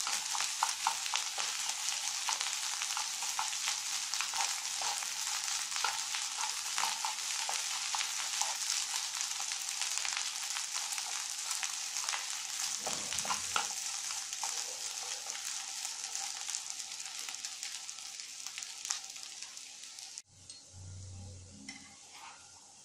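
Fried rice sizzling in a hot nonstick pan while it is stirred with wooden chopsticks, with frequent light clicks of the chopsticks against the pan. The sizzle cuts off abruptly near the end, leaving a quieter stretch with a faint low hum.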